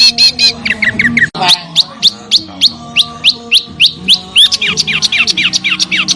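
Small songbird singing a fast series of sharp, loud, falling whistled notes, about four a second, with a brief break about a second in before the series resumes.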